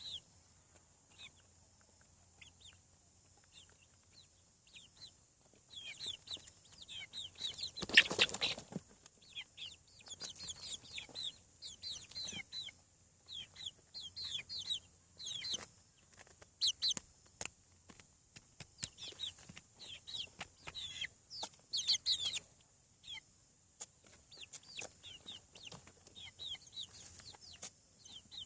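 Young chickens peeping: many short, high chirps, some in quick runs and some spaced out, with a brief loud rustling clatter about 8 seconds in.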